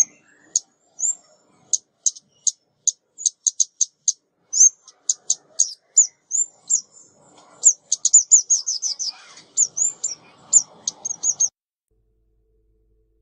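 A female ốc mít bird giving a lure call: short, sharp, high chip notes that slur downward, scattered at first and then in a quick run about eight seconds in, stopping shortly before the end. A faint rustle sounds under the last few calls.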